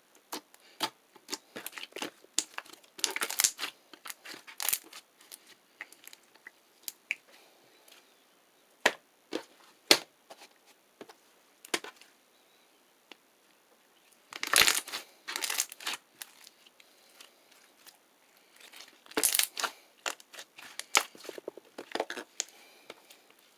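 Crinkling and crushing handling sounds in irregular short bursts, with quiet gaps between them and louder flurries about fifteen and twenty seconds in.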